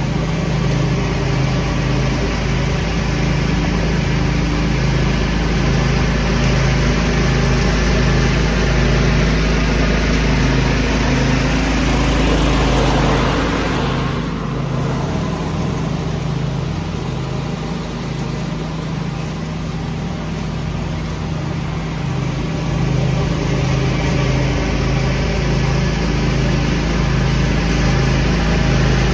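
Small engine of a lawn-tractor leaf-vacuum setup running steadily under load. A rushing hiss of air swells and then drops off abruptly about halfway through.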